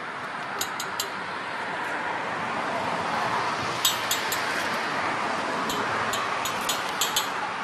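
A road vehicle going past, its noise swelling and then fading, with a scattering of short sharp clicks in three little clusters.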